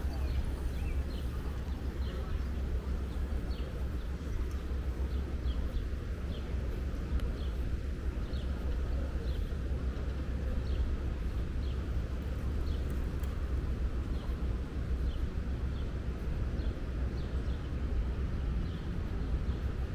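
Small birds chirping repeatedly in short, sharp notes over a steady low outdoor rumble.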